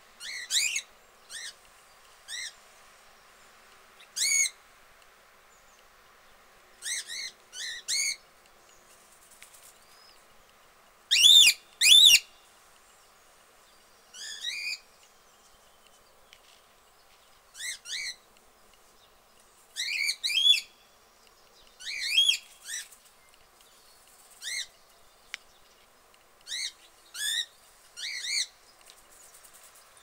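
Short, high bird chirps in scattered groups of one to three, with a louder pair about eleven seconds in. A faint, steady background hiss sits under them.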